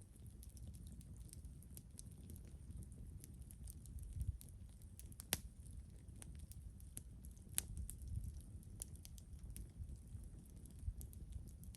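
Wood campfire crackling: scattered sharp pops and snaps, two louder ones about five and seven and a half seconds in, over a low steady rumble.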